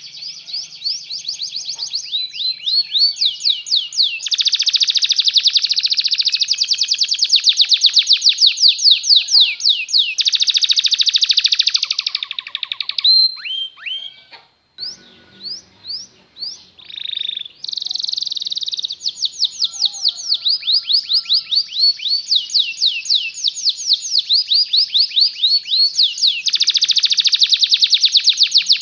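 Canary singing a long song of fast repeated trills. About halfway through, the trills break off for a few seconds into a handful of separate, quick downward-sweeping notes, then the rapid trilling resumes.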